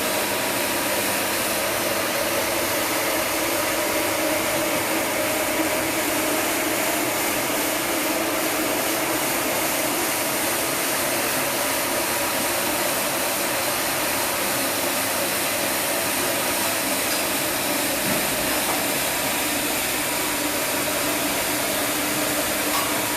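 Floor polisher machine scrubbing a carpet, its motor running with a steady hum and hiss.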